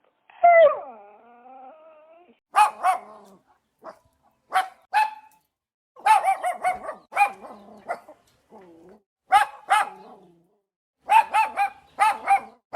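A dog gives a drawn-out cry that falls in pitch, then barks repeatedly, single barks and quick runs of three or four.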